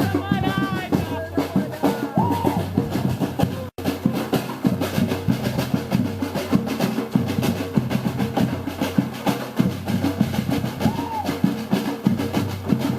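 Samba street-percussion band playing a fast, dense drum rhythm, with voices calling out over it near the start. The audio cuts out for an instant about four seconds in.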